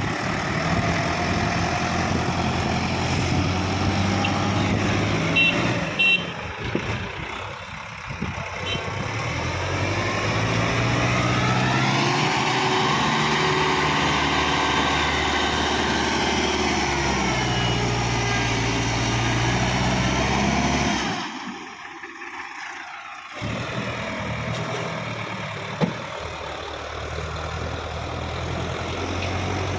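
Sonalika 750 tractor's diesel engine working hard under a full load on a climb. Its note rises about ten seconds in and holds high, then cuts out briefly a little after twenty seconds and carries on at a lower pitch.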